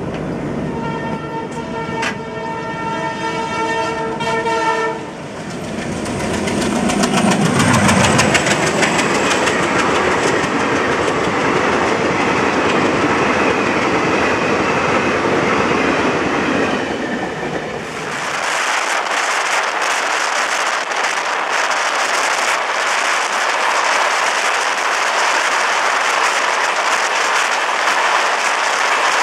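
A diesel locomotive horn blows a held chord of several tones for about five seconds, then a passenger train runs past with wheels clattering over the rails. Partway through, the sound changes abruptly to the steady rush and rattle of riding a moving train alongside another train on the next track.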